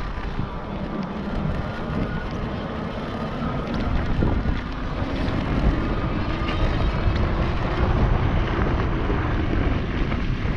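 NCM Aspen e-bike being ridden fast off-road: steady wind rush over the microphone and tyre rumble on the trail, with a faint steady whine from the electric motor.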